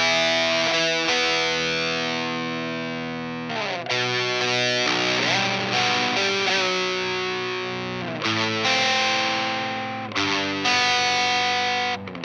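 Baritone-tuned Fender Telecaster with flatwound strings, played through an Idiotbox Power Drive overdrive pedal and an Amplified Nation amp. It plays chords that are left to ring and are restruck every few seconds, sliding down in pitch about three and a half seconds in and sliding up near five seconds.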